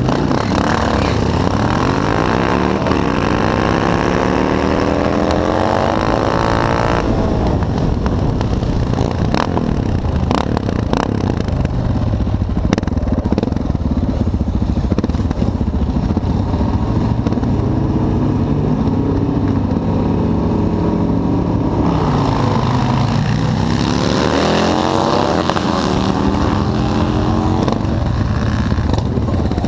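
Motorcycle engines at a drag strip accelerating hard, the engine note climbing with a dip at each gear shift. One full-throttle run comes at the start and another after about twenty seconds, with engines running more steadily in between.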